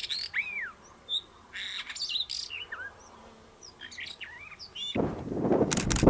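Blue rock thrush singing: a string of short whistled notes that glide up and down, mixed with a few raspy ones. About five seconds in, a louder rushing noise with a few sharp clicks takes over.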